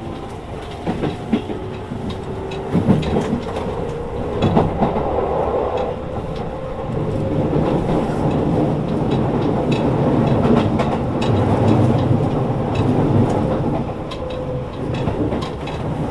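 Shin-Keisei N800 series electric train heard from inside the car: the Toyo IGBT-VVVF traction inverter whines, rising steadily in pitch over the first several seconds as the train picks up speed. Wheels click over rail joints under a running rumble that grows louder toward the middle.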